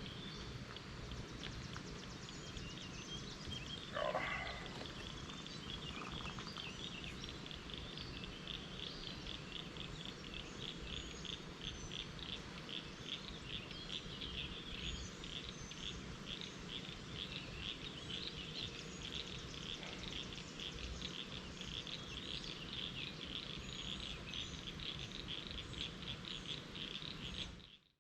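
Frogs calling in a steady chorus of quick, repeated clicks, with one brief louder call about four seconds in.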